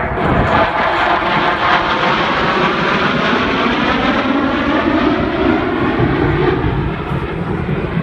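F-16 fighter jets flying past, a loud, steady jet engine noise with a whooshing tone that sweeps in pitch as they pass.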